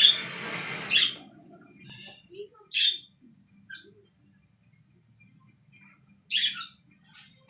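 Pet cage birds chirping: a loud, noisy burst with sharp high calls in the first second, then short single chirps a few seconds apart.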